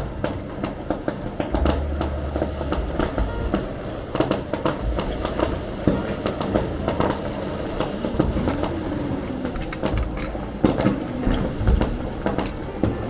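Fireworks display going off: a dense run of irregular sharp pops and crackles, with deep low booms rumbling now and then.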